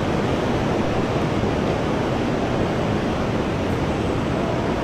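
Steady rushing of water, an even, unbroken noise with no distinct events.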